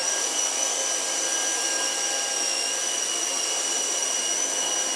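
Corded electric disinfectant sprayer running steadily, a motor hiss with a constant high-pitched whine, as disinfectant is misted through a subway car.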